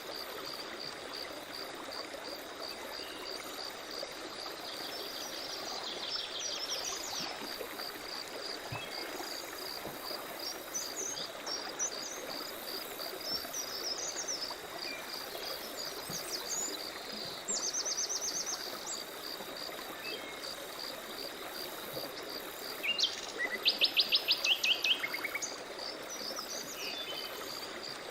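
Forest birds chirping and trilling over an evenly pulsing high insect chirp and the soft rush of running water. The loudest call is a fast run of sharp bird notes near the end.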